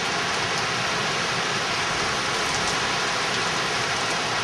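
Heavy storm rain pouring down steadily, an even hiss with no thunderclap in it.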